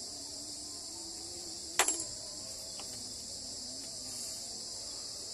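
Steady, high-pitched chorus of crickets and other night insects, with a single sharp click just under two seconds in.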